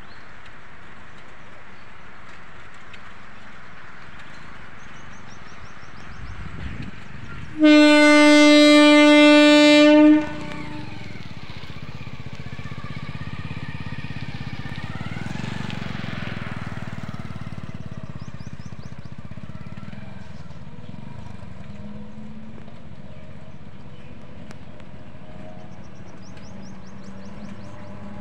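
Local passenger train's horn sounding one long, steady blast of about two and a half seconds, about eight seconds in, warning of its approach to a level crossing. After the blast comes the rising rumble of the train running up to and onto the crossing.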